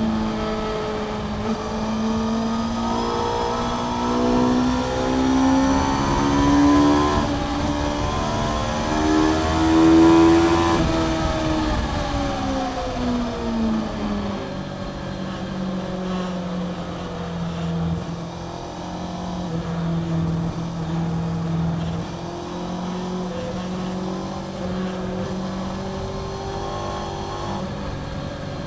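Inline-four engine of a 2011 Honda CBR600F (PC41) with a Mivv aftermarket exhaust, heard from the rider's seat at speed. The revs climb to a peak about ten seconds in, fall away over the next few seconds as the bike slows, then run lower and steadier with small changes in pitch.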